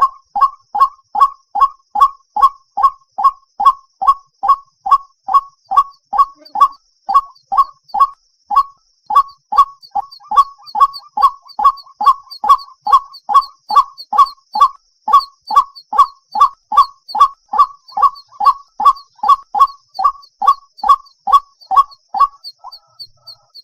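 White-breasted waterhen calling at night: a monotonous run of short, loud, hoarse notes repeated about twice a second, stopping near the end.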